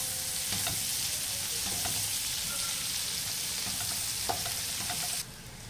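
Bacon, calabresa sausage, onion and green pepper sizzling in hot pork lard in a metal pot, stirred now and then with a wooden spoon. The steady sizzle cuts off abruptly near the end.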